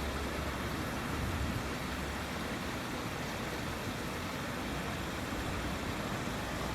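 Steady rushing background noise with a low rumble underneath. No bird calls or other distinct sounds stand out.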